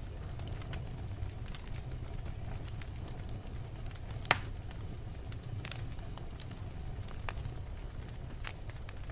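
Wood logs burning in a fireplace: a low steady rumble with scattered crackles and one loud pop a little over four seconds in.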